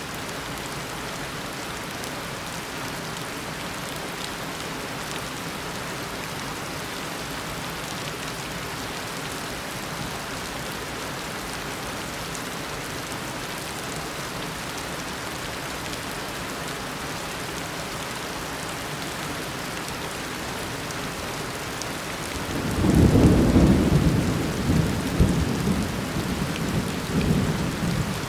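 Steady heavy tropical rain downpour. About three-quarters of the way through, a loud low roll of thunder starts and rumbles on in several swells to the end.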